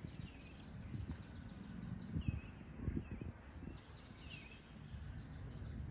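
Outdoor ambience: small birds giving short chirps every second or two, over a low rumbling background noise.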